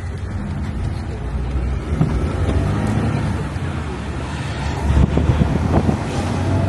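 Soviet Lada car's engine running as it drives off-road, with scattered knocks and rattles from the rough ground, the strongest about five to six seconds in.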